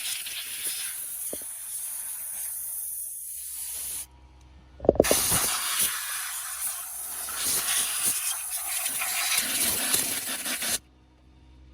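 Compressed air blowing dust and debris out from around a fuel injector on the engine, in two long hissing blasts: the first stops about four seconds in, the second starts about a second later and runs for around six seconds.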